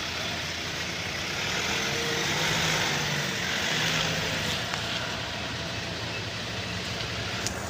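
Car engine running, with a gentle swell in level a couple of seconds in, over street noise.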